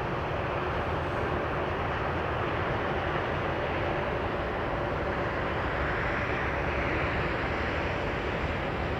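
Passenger jet engines on approach: a steady rumbling roar with a faint whine, growing slightly brighter about two-thirds of the way through.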